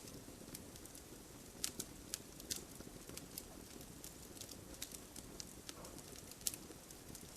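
Wood fire burning in a fireplace: a soft steady hiss with scattered sharp crackles and pops at irregular intervals.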